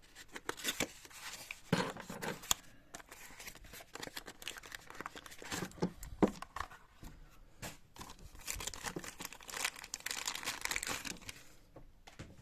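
Plastic packaging bags crinkling and rustling as small parts are unwrapped by hand, with scattered light clicks and taps, the crinkling heaviest near the end.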